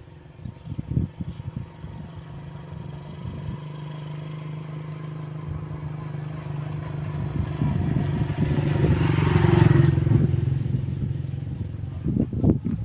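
A motor vehicle's engine, likely a motorcycle, running steadily and growing louder until about ten seconds in, then easing off as it passes. Sharp knocks come about a second in and again near the end.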